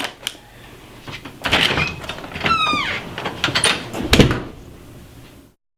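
Several knocks and thumps with a short squeak that falls in pitch, the loudest thump coming about four seconds in. The sound then cuts off into silence.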